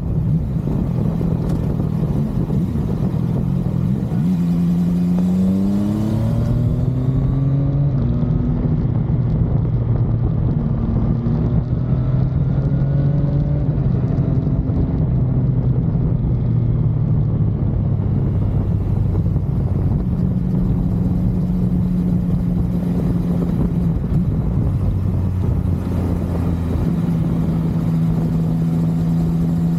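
CFMoto 675NK's three-cylinder engine running under way. It revs up in rising steps about four seconds in and again around eleven seconds, and otherwise holds steady cruising speeds.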